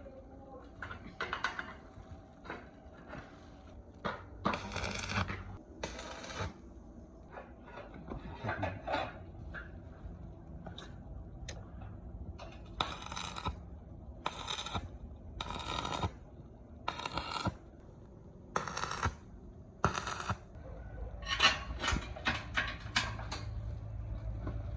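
Metal clinking and small knocks of parts being handled, broken by about ten short noisy bursts of half a second to a second each.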